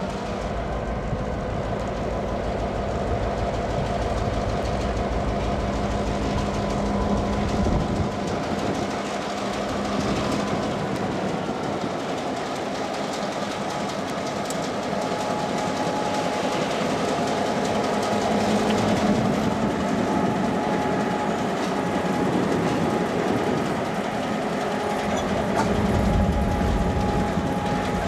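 Freight train led by diesel locomotive CSXT 2639 arriving at the yard and passing close. The locomotive's diesel engine runs with a steady low drone, and the wheels click over the rails.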